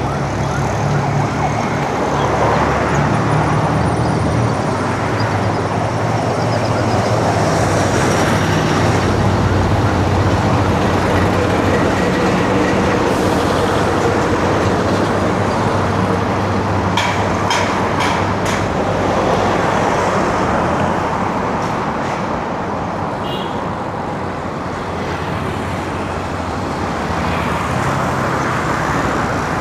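Steady urban road traffic heard from a bicycle: motor-vehicle engines running and passing, with a low engine hum. A quick run of four or five sharp clicks comes about two-thirds of the way through.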